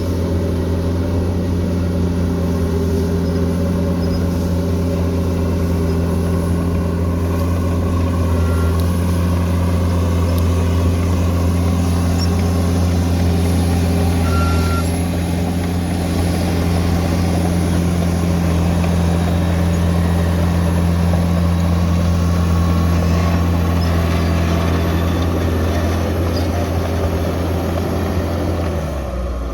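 Heavy diesel engine of a bulldozer running steadily. A short high beep comes twice around the middle, and the engine note drops and shifts near the end.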